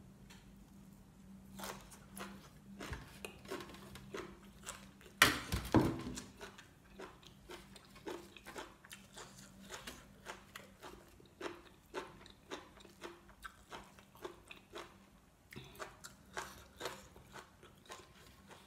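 A person chewing mouthfuls of fresh herb leaves and leafy greens with braised chicken liver: a steady run of short chewing sounds about two a second, with one much louder bite about five seconds in.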